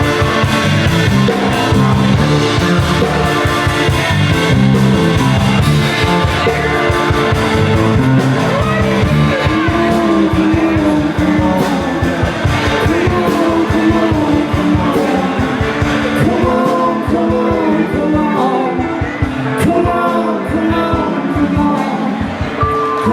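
Rock band playing live, guitar to the fore over a steady drum beat. A bending melody line rides on top from about halfway through.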